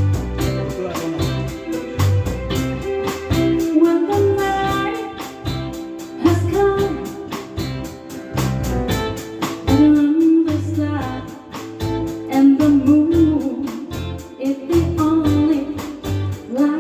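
Live band music: a repeating bass line and guitar under a voice singing.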